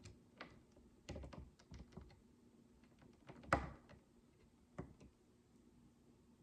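Plastic micro building bricks clicking and tapping as they are handled and pressed together: a cluster of light clicks about a second in, the loudest knock about halfway, and a single click near the end.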